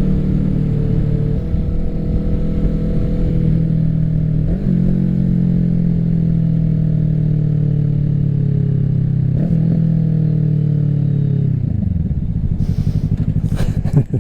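Kawasaki Ninja 650's parallel-twin engine through an M4 aftermarket full exhaust, heard while riding. It pulls on the throttle with its pitch rising and stepping between gears, then drops in pitch near the end as the bike slows.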